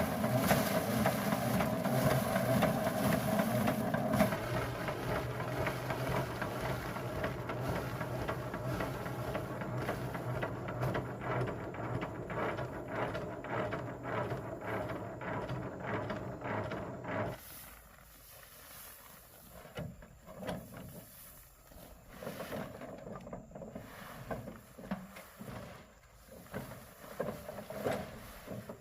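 A motor runs steadily, drops somewhat in loudness after about four seconds, and cuts off abruptly a little past the middle. After that come quieter, irregular knocks and handling sounds.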